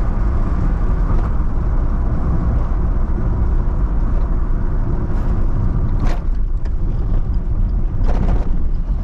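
Steady engine and road noise from inside a moving vehicle on the road. Two brief louder noises break through, about six and about eight seconds in.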